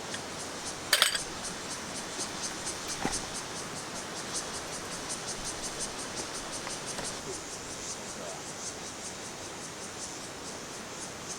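Insects chirping in a steady rapid pulse over a steady background hiss, with a sharp clatter about a second in and a smaller click about three seconds in.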